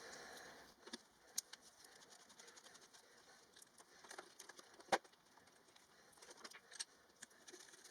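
Faint scattered clicks and taps, with one sharper click about five seconds in.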